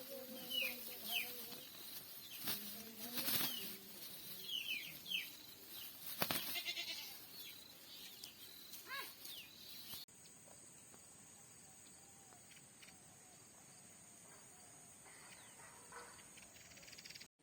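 Mynah birds calling: short falling whistled chirps mixed with harsh clicks and rasps. About ten seconds in, the sound changes abruptly to a quieter stretch with a steady high hiss and a few faint calls.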